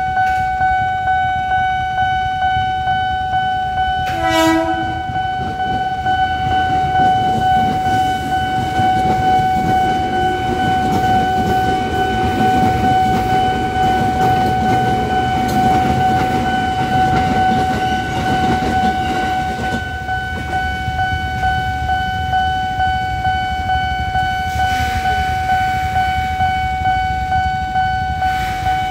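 A level-crossing warning alarm sounds one steady tone throughout. About four seconds in a train gives one short horn blast. Then a KRL commuter electric train rumbles past from about 8 to 20 seconds in, and its noise fades while the alarm keeps sounding.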